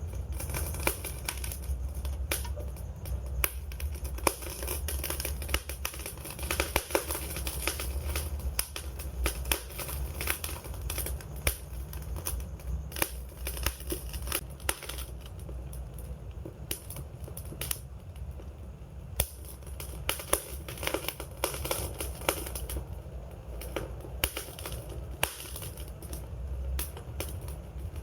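Wood fire crackling steadily, with many irregular sharp pops and snaps over a low, constant rumble.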